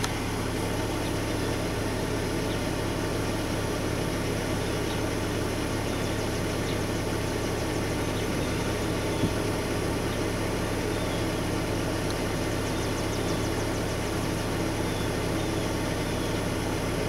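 Steady hum of a car engine idling, heard from inside the cabin, with a single light click about nine seconds in.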